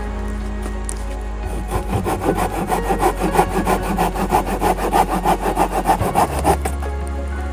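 Wood being sawn by hand: a run of quick, even back-and-forth strokes, about five a second, starting about two seconds in and stopping near the end.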